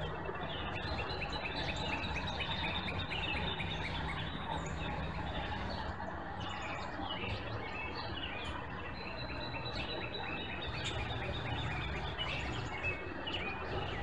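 Songbirds chirping and twittering in many short, quick notes and fast trills, over a steady background hiss and a faint low hum.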